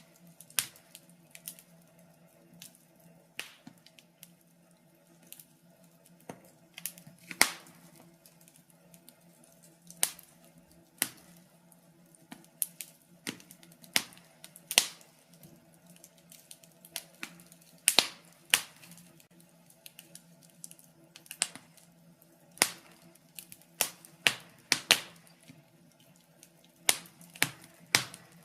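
Wood fire crackling: irregular sharp pops and snaps, several a second at times with quieter gaps, over a faint low steady hum.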